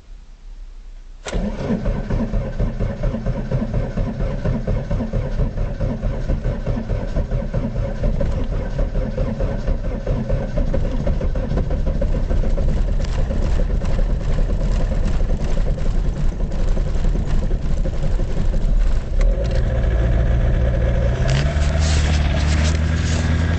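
Ford Fiesta Mk2's 1.6 four-cylinder diesel engine starting from cold: it fires suddenly about a second in and settles into a clattering idle. About 19 seconds in the note changes and the revs rise a little near the end.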